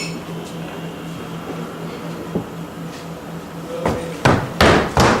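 Steady low hum of an old film soundtrack. Near the end come four loud thumps and bangs in quick succession, like door or furniture impacts.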